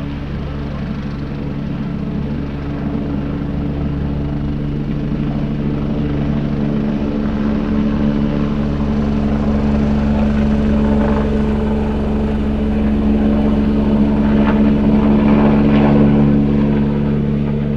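Distant helicopter running, a steady drone of several low tones that grows slowly louder and then fades near the end.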